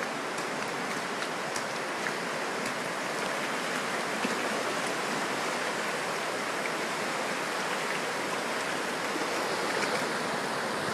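Steady rushing of water from a flooding, swollen river mixed with falling rain, an even noise with faint scattered ticks.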